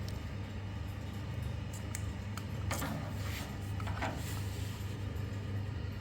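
Electric fan running with a steady low motor hum, with a few short scraping sounds about three and four seconds in.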